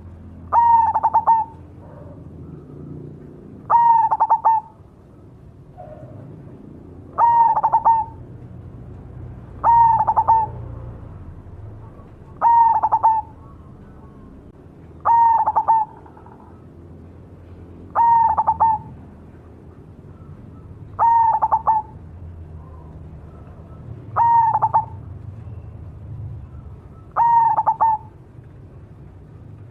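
Perkutut cemani (black zebra dove) singing its cooing song, ten calls at an even pace of about one every three seconds. Each call is a quick run of notes ending in a held coo.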